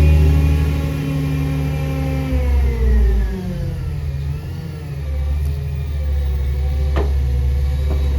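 Engine of a CNG Peterbilt garbage truck held at raised revs, then dropping back to a lower steady speed about three seconds in, its pitch wavering a little afterward. A sharp knock comes about seven seconds in.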